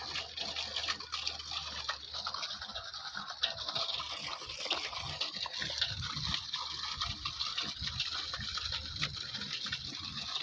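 Water pouring from a pipe outlet over a small homemade waterfall and splashing steadily into a fish pond.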